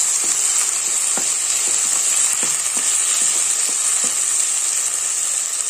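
Onion, onion flower stalks and ginger–green chilli paste sizzling in hot mustard oil in a pan. A spatula stirs them, with a series of light scrapes and knocks against the pan over the steady hiss of the frying.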